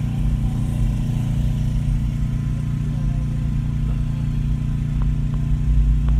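Steady low engine drone heard from inside a car's cabin as it rolls slowly, with a couple of faint clicks about five seconds in.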